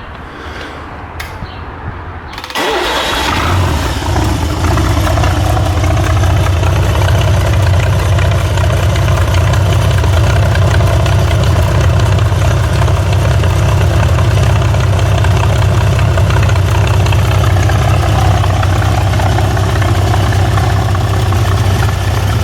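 GMC 302 military straight-six engine, fitted with triple Rochester single-barrel carbs and headers with homemade baffles, started cold: it catches about two and a half seconds in and settles into a steady idle.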